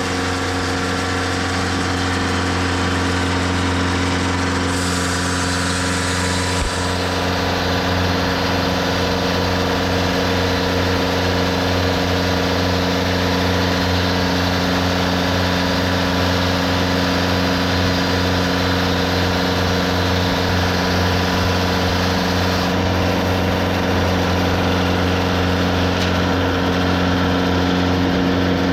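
Engine of a TimberKing 2520 portable sawmill running at a steady speed.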